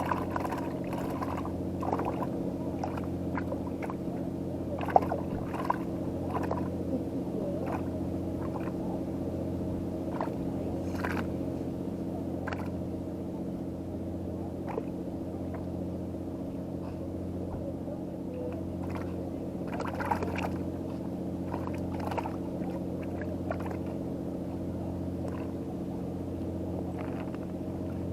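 An engine running at a steady low drone, with scattered light knocks and clicks.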